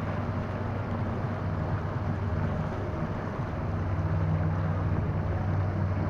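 Wind buffeting the microphone and water noise on a small inflatable boat under way, with a faint steady tone underneath. It grows a little louder about two-thirds of the way through.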